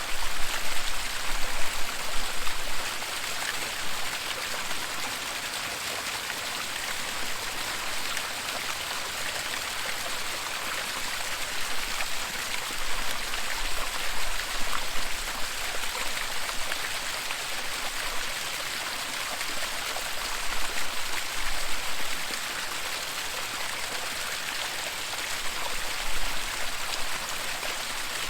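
Waterfall: water falling and rushing steadily, a dense even splashing hiss. It swells briefly a few times, with a low rumble, near the start, about halfway and near the end.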